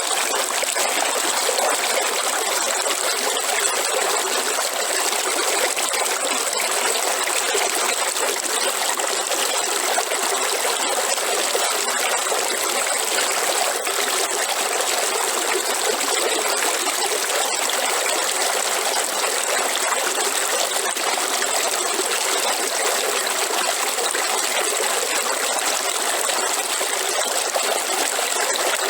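River water flowing steadily over rocks, an even rushing trickle that does not change, with a constant thin high-pitched tone above it.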